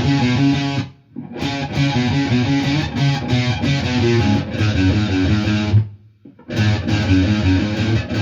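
Electric guitar playing a single-note rock riff on the low strings, the phrase repeated. It stops briefly just before a second in and again about six seconds in, then starts over.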